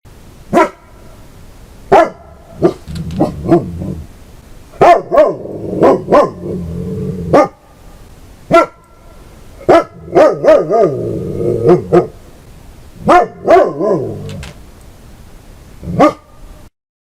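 German Shepherd barking repeatedly in sharp, irregular barks, with low growling between some of the barks.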